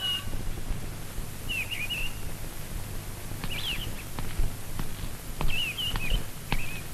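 Birds chirping in short twittering phrases, four or five times, over a steady low hum, with a few dull thumps in the second half.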